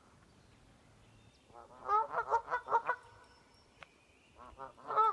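Geese honking: a quick run of repeated calls about two seconds in, then another short run near the end.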